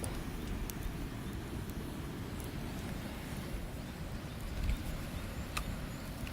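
Wood campfire burning, with a few sharp crackles and pops over a low, steady rumble.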